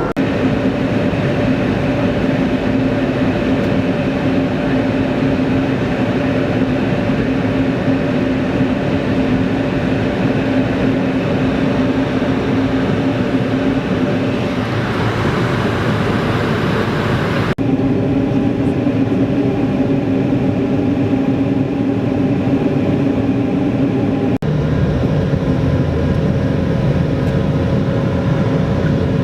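Airbus A220-300 cabin noise: the steady drone and hum of its Pratt & Whitney geared turbofans and airflow, with a few held tones. The tone shifts abruptly twice, at about two-thirds and five-sixths of the way through.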